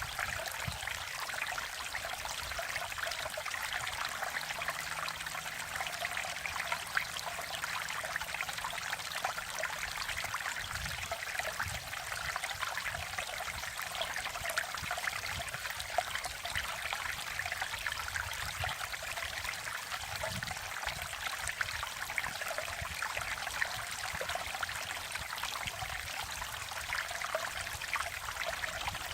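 Mountain stream water running steadily over rocks, an even trickling and splashing with no breaks.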